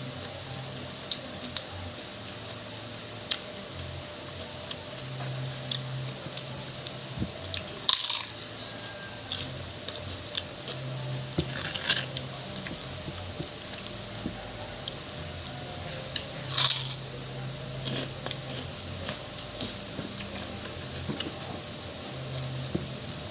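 Close-mic eating sounds: chewing with many small mouth clicks, broken by three louder crunches spread through the stretch, typical of biting into crispy pork cracklings (chicharon) eaten with a fern salad.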